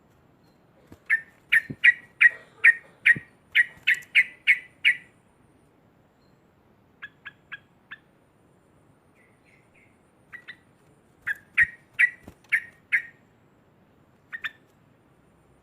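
Yellow-vented bulbul giving its loud chattering 'ngekek' call: a fast run of sharp, evenly repeated notes, a pause with a few faint notes, then a second run, with a few faint low knocks beneath.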